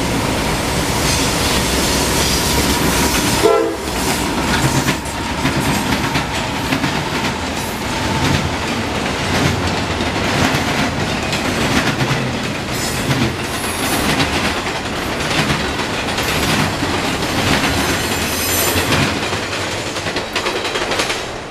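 Double-stack container freight train passing close by, with a continuous heavy rumble and the clatter of its wheels over the rail joints. There is a brief loud pitched sound about three and a half seconds in.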